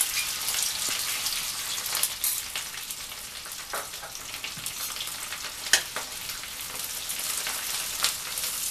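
Mashed boiled potatoes sizzling in hot ghee in a kadhai: a steady, crackling frying hiss. A few sharp clicks cut through it, the metal spatula knocking against the pan as the potatoes are stirred, the loudest a little past the middle.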